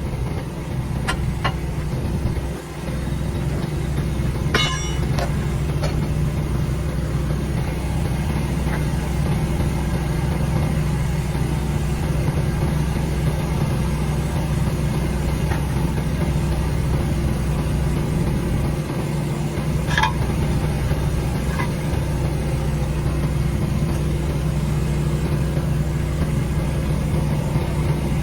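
An engine idling steadily, with a few short clicks over it, the clearest about five seconds in and again near twenty seconds.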